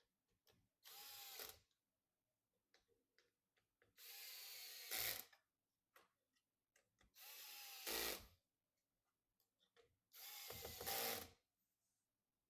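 Small electric screwdriver driving screws in four runs of about a second each, roughly three seconds apart. Each run is a motor whine that ends in a louder click.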